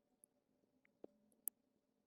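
Near silence, with a few faint, sharp clicks, the two clearest about a second in and halfway between that and the end.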